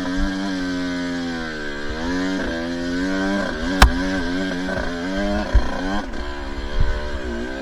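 Two-stroke dirt bike engine running along a trail, its revs repeatedly dropping and climbing as the throttle is worked. A sharp knock comes a little under four seconds in.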